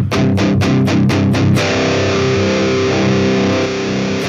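Distorted electric guitar played through a Line 6 HX Stomp XL's Friedman BE100 amp model with the saturation switched off, a somewhat more bassy, lower-gain tone. Quick picked notes for about a second and a half, then a chord left ringing, with more picking near the end.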